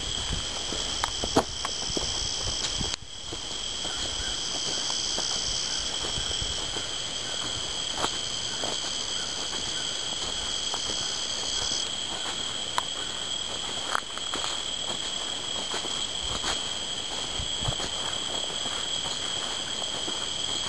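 Insects calling in a steady high-pitched chorus, one layer of it stopping about halfway through, with a few faint clicks.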